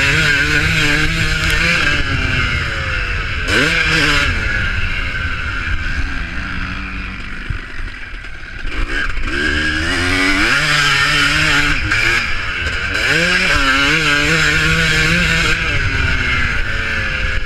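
Several motocross bikes racing, their engines revving up and falling off again, with repeated rising surges as riders accelerate. There is a short lull about halfway through before the engines come back loudly.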